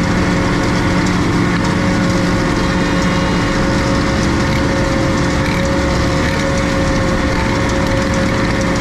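Tractor and trailed forage harvester working steadily in grass, with a steady whine over a dense crackling machine noise.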